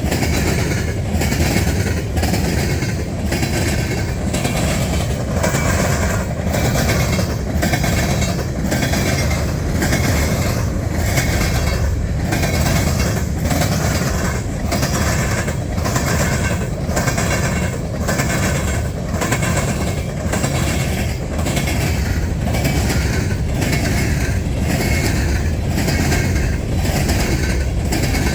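Freight train cars rolling past at speed, a steady rumble with the wheels clicking over rail joints in an even rhythm of about one and a half clicks a second.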